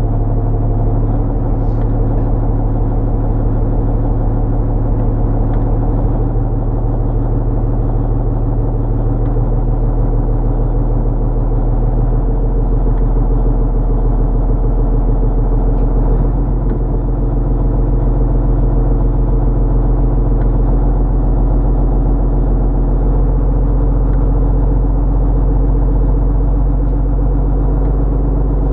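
Fishing boat's engine running steadily after start-up, with a slight change in pitch about sixteen seconds in.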